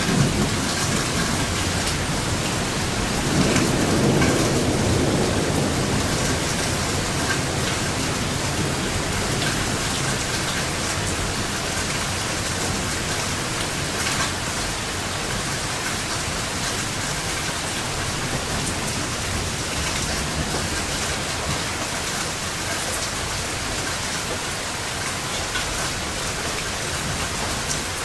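Steady heavy rain, with a roll of thunder rumbling up about three seconds in and fading away over the next few seconds.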